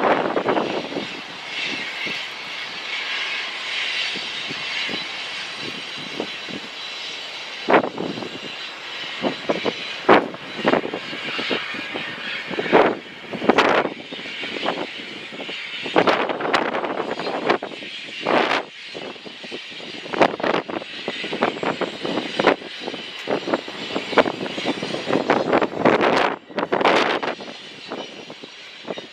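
Wind buffeting the microphone in irregular gusts, over a steady rushing hiss that is strongest in the first several seconds.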